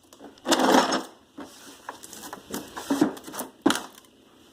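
A set of hand tools being handled: a loud scraping rustle about half a second in, then a few scattered sharp clicks and knocks of hard parts being moved.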